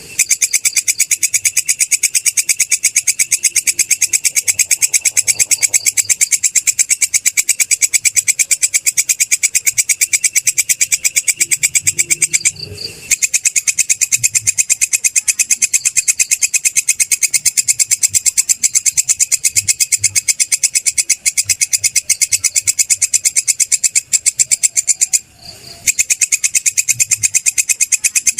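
Belalang kecek, a katydid, stridulating: a loud, high-pitched, fast and even pulsing rasp. It breaks off briefly twice, about halfway through and near the end.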